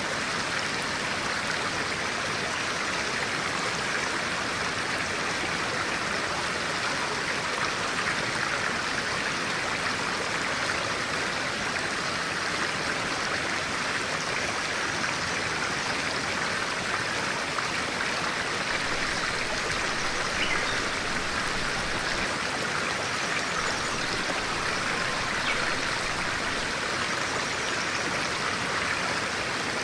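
A clear-water stream flowing steadily, an even rushing and babbling of water.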